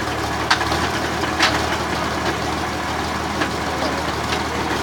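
Truck engine running steadily at a low hum, with a few short sharp knocks over it, the loudest about half a second and a second and a half in.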